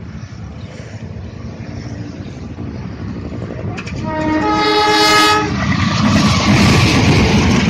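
A train approaches with a rumble that grows louder. Its horn sounds about four seconds in for a second and a half, and then the loud rush of the train going past.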